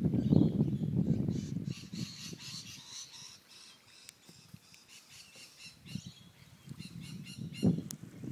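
Birds calling over and over in short, high squawks and chirps. A low rumble on the microphone is loudest in the first two seconds, and there is a sharp bump near the end.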